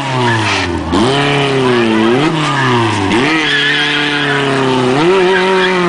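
Hatchback engine revving hard while driven through a cone slalom, its pitch falling and climbing back up about four times as the throttle is lifted and reapplied between turns. Tyres squeal through the turns.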